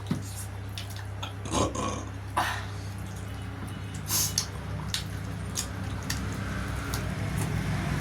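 Wet eating sounds: scattered lip smacks and mouth clicks of someone chewing, with a few louder short smacking or slurping bursts, over a steady low hum.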